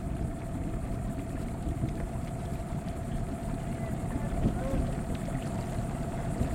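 Wind rumbling on the microphone, with a steady, slightly wavering motor hum running underneath.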